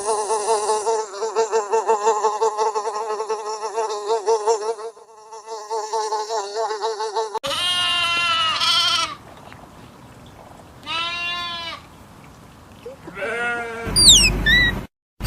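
Farm animals calling in turn: a long quavering bleat lasting about five seconds, then three shorter calls that rise and fall in pitch, and high chirping near the end.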